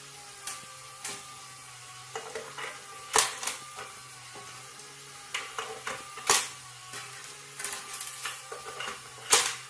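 Irregular sharp taps and clicks on a hard surface, in small clusters with a few louder knocks, over a steady low hum.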